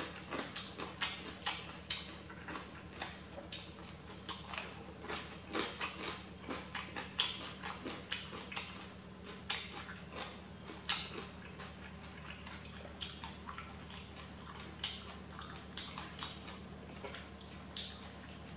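Close-miked chewing of yellow noodles: a run of short, wet mouth clicks and smacks, closely spaced at first and thinning out in the second half, over a steady high hiss.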